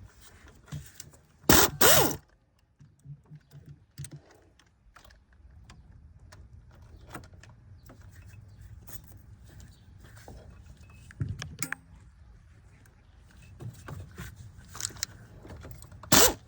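Speedaire air impact wrench firing in short bursts on bolts: two loud bursts about a second and a half in, a shorter one around eleven seconds, and another loud one near the end, with small clinks of tools in between.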